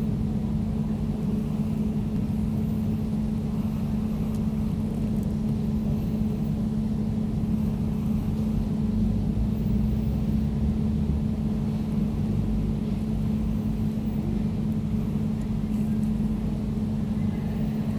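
Air conditioner running steadily: a constant low hum with a deeper rumble beneath it and a faint airy hiss above.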